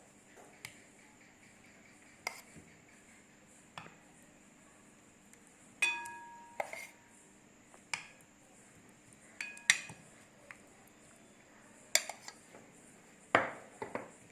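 Spoon clinking and tapping on a plate while red sauce is spread over it: about a dozen separate clinks, two of them ringing briefly.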